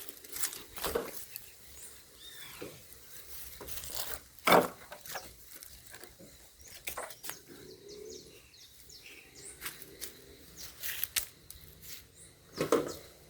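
Irregular clicks, knocks and rustling of someone moving among branches and dry brush, with a sharp knock about four and a half seconds in and another near the end.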